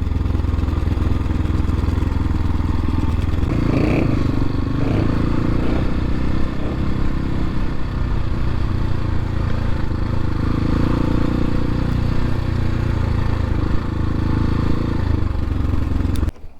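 Dirt bike engine, an X-Pro Templar X 250, running steadily while riding, with wind rushing past the helmet camera. The engine note shifts a little about four seconds in and cuts off abruptly just before the end.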